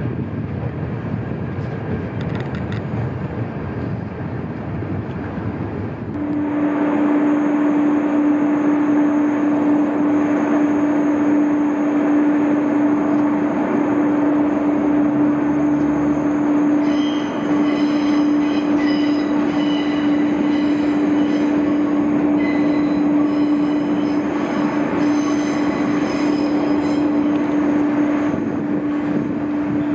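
Dutch NS electric passenger trains on the move: a low rumble for the first few seconds, then a louder passage with a strong steady hum as a double-deck train runs toward the platform, with faint high whines joining partway through.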